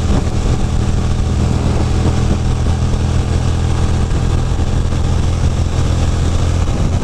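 Ducati Monster 620's air-cooled V-twin engine running at a steady cruise, with a steady rush of wind and road noise over it.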